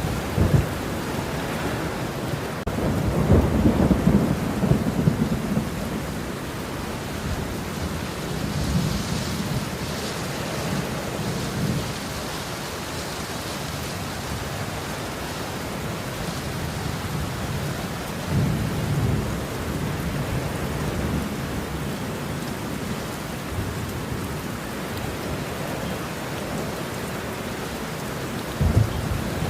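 Steady rain falling, with thunder rumbling low several times. The strongest roll comes about three seconds in, and weaker ones follow around ten and nineteen seconds and again at the end.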